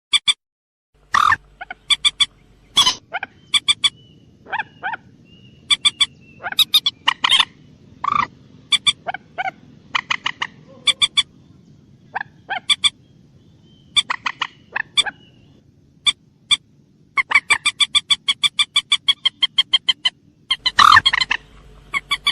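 Common moorhen calling: short, sharp notes given singly and in quick pairs, then a fast even run of about six or seven notes a second, ending with a louder, harsher call near the end.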